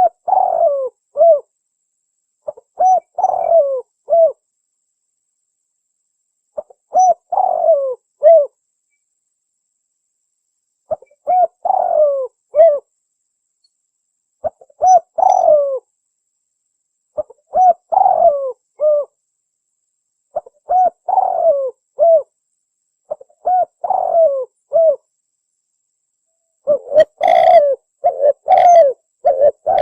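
Spotted dove cooing: a short phrase of a few coos repeated about every three seconds. Near the end the phrases come closer together, with a brighter, harsher tone.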